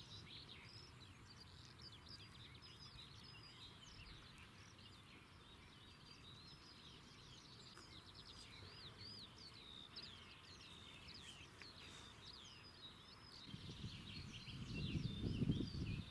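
Faint birdsong: many small birds giving short chirps and quick whistled notes. A low rumbling noise swells in the last couple of seconds.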